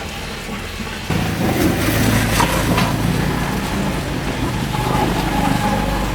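Motor vehicle engine running, louder from about a second in, with some knocks and clatter over it.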